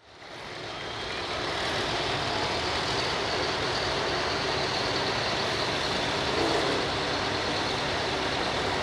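Turbocharged diesel engine of a turbo stock pulling tractor running steadily, fading in over the first second or so.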